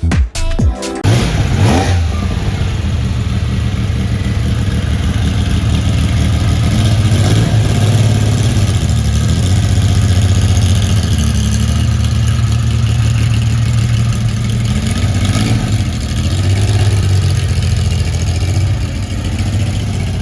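Lancia Stratos V6 engine starting about a second in and then running at a steady idle, its revs rising and falling gently a few times.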